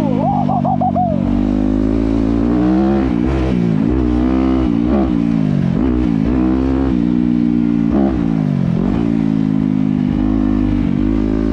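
Dirt bike engine revving up and dropping back again and again as the throttle is worked.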